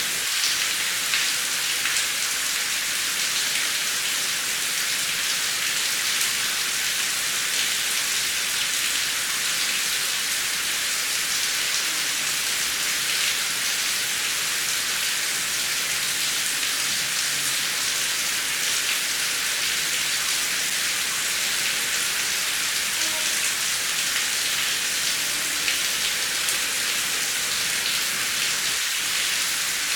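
Steady heavy rain, an even hiss with many fine drop ticks.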